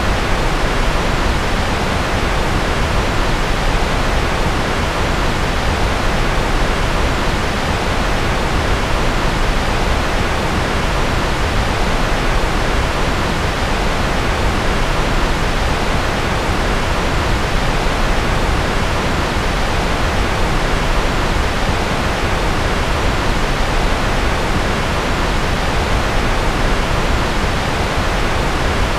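Steady, unbroken synthetic noise of the kind sold as white noise for concentration: an even hiss with no changes or events, weighted toward the lows rather than bright and thin.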